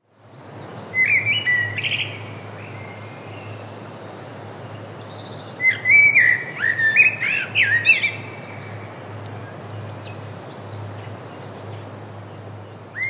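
Bird chirping in two bouts of quick rising and falling notes, the first about a second in and a longer one from about six to eight and a half seconds in, over a steady low hum.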